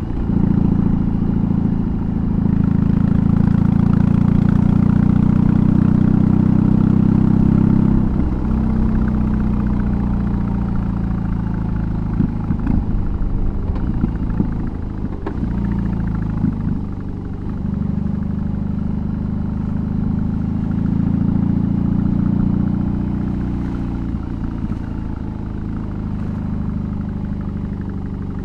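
Exhaust of a BMW R18's big air-cooled boxer twin on the move. The engine pulls hard under load for the first several seconds and eases off sharply about eight seconds in. It runs unevenly with some knocks for a few seconds, pulls again briefly past the twenty-second mark, then settles lower.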